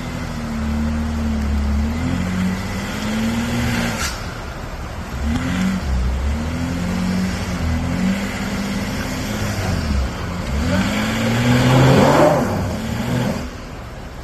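An off-road vehicle's engine revving up and down unevenly as it works over the trail, with a loud rush of noise about twelve seconds in. The engine drops away shortly before the end.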